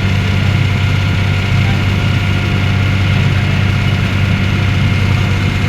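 Passenger ferry's engine running steadily: an even, unbroken low hum with no change in speed.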